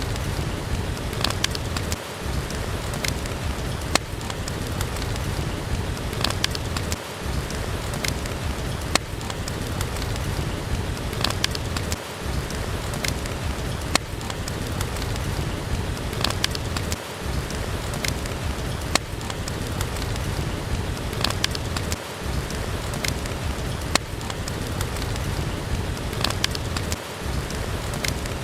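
Steady rain with a fireplace crackling, sharp pops and snaps scattered over the even hiss of the rain. The mix repeats about every five seconds, a short loop.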